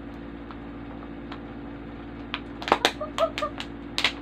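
A steady low hum, then from about two seconds in a quick, irregular run of sharp taps or clicks, loudest just before three seconds and again near the end.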